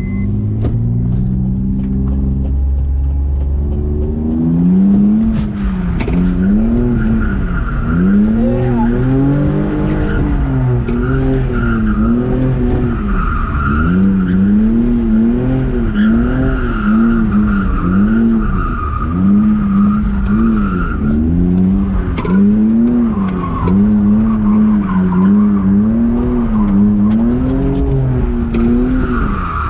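BMW E46 drift car being drifted: the engine revs rise and fall in repeated swells just under once a second while the tyres squeal on and off.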